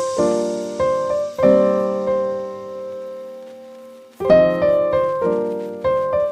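Background music: piano chords struck and left to ring and fade, with a longer held chord in the middle and a few more struck chords near the end.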